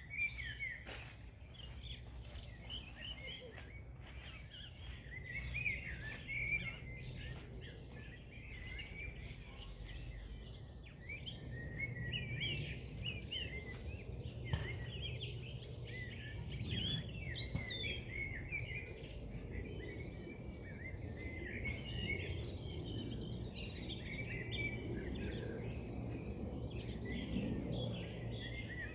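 Several birds singing, with many overlapping chirps and warbles throughout, over a steady low background hum.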